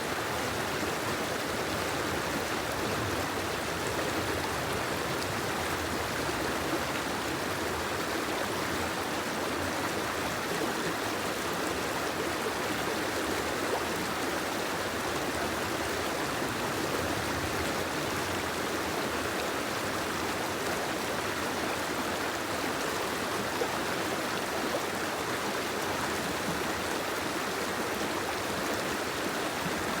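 Steady, even rushing of water, unchanging throughout, with no distinct drops or splashes standing out.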